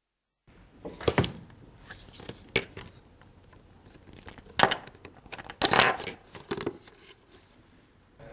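A series of sharp clicks and metallic clinks of small hard objects being handled, irregular and of varying loudness; the loudest come about a second in and twice more past the middle.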